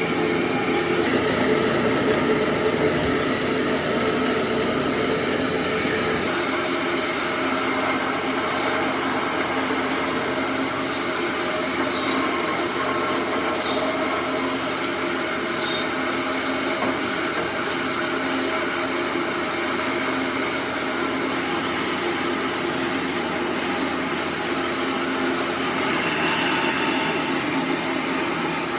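A power tool or workshop machine running steadily, with a high wavering squeal that comes and goes from about six seconds in.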